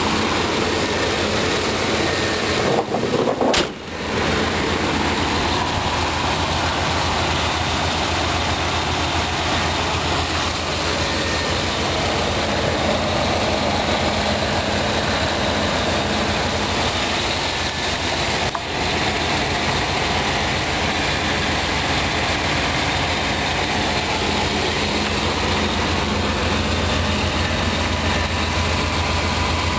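1990 Chevrolet Suburban's 5.7-litre V8 idling steadily, heard from the open engine bay.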